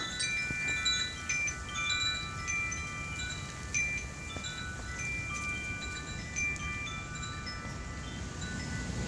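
Wind chimes ringing irregularly in gusty wind, many overlapping high tones struck at random and ringing on, over a low steady rumble.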